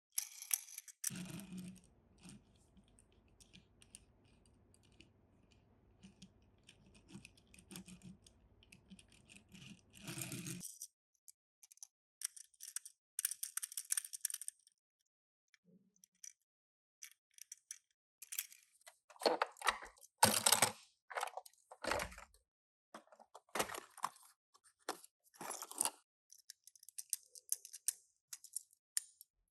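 Hands unboxing and handling small die-cast Tomica toy cars: crinkling and tearing of the packaging at the start, then scattered clicks, rattles and knocks of the cars and plastic parts, loudest about twenty seconds in. A faint low hum runs under the first ten seconds.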